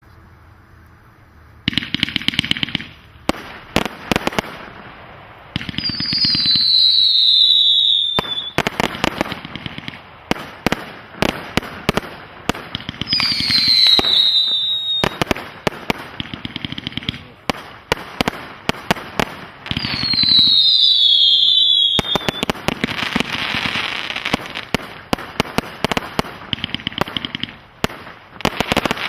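Brothers firework going off in a long run of shots: launch thumps, sharp bangs and crackling. Three long whistles fall in pitch, at about 6, 13 and 20 seconds in. It starts nearly two seconds in, after a quiet moment.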